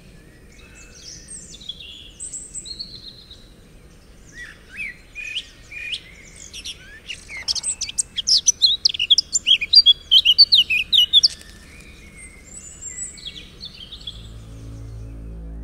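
Birdsong: several birds chirping and trilling, thickening into a busy burst of rapid chirps in the middle, then thinning out. Low ambient music fades in near the end.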